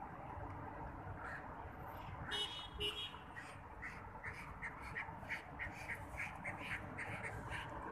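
Birds calling, two louder calls a little after two seconds in and then a quick run of short calls about three a second, over a low steady hum of road traffic.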